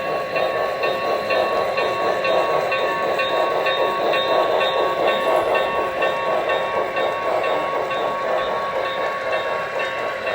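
Model train running on a layout: a steady whine with a rapid, even ticking throughout.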